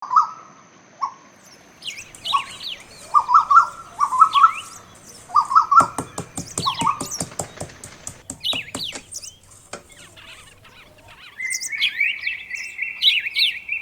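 Several birds chirping and calling, short notes overlapping one another. A run of sharp clicks comes about six seconds in, and a steadier, higher trilling call takes over near the end.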